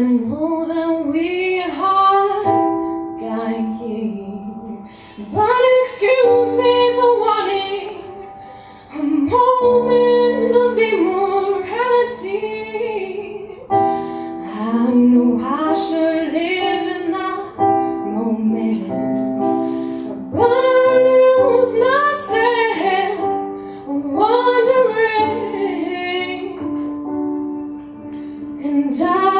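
A woman singing a song in phrases of a few seconds each, over instrumental accompaniment with sustained held notes.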